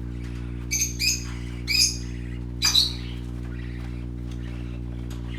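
Small pet parrots giving four short, harsh chirping calls in quick succession during the first three seconds, then falling nearly quiet, over a steady low hum.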